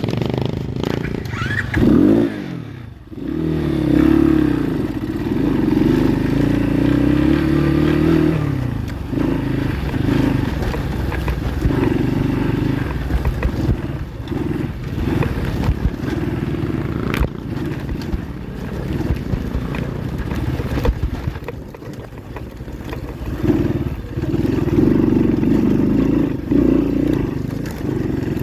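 Pit bike engine running while riding on a trail, its revs rising and falling with the throttle. It eases off briefly about three seconds in and again a little past the twenty-second mark.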